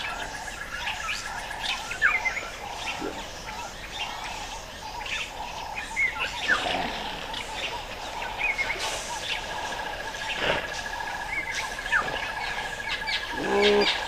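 African bushveld birds chirping and calling, many short whistled notes and quick rising and falling calls, over a steady high trill that stops about two seconds in and returns about nine seconds in. Just before the end a lower, fuller animal call sounds.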